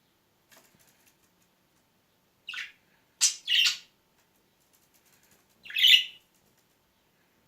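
Pet budgerigar giving four short, harsh chirps: a pair close together in the middle and the loudest one near the end. A few faint ticks come before them.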